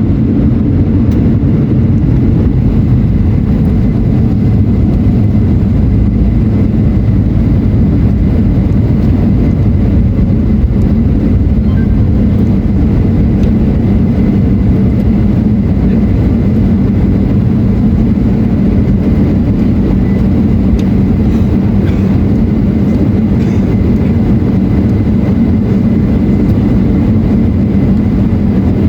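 Steady cabin noise inside a Boeing 737-800 on the ground just after landing: its CFM56-7B turbofan engines running at low power with a deep, even rumble that does not change.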